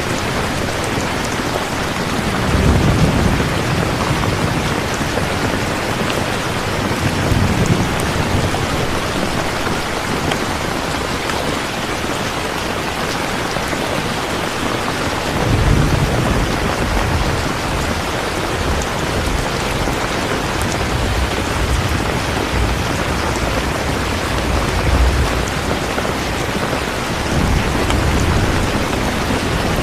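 Steady heavy rain, with several low rumbles of thunder swelling up and fading about five times.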